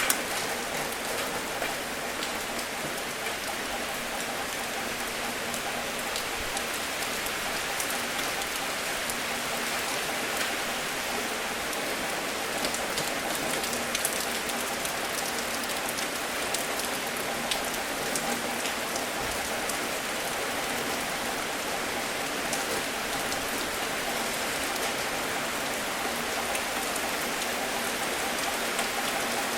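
Steady rain falling, a continuous hiss with many scattered individual drops ticking on a surface.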